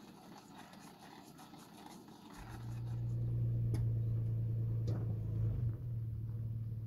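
Nissan Xterra's V6 engine idling steadily at one even pitch, coming in a little over two seconds in, with a few light clicks over it. Before that, only faint quiet outdoor ambience.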